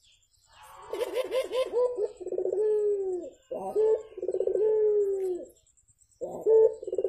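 A puter (Barbary dove) cooing three times. Each call is a quick stuttering run of short notes that ends in a long, drawn-out coo sliding down in pitch.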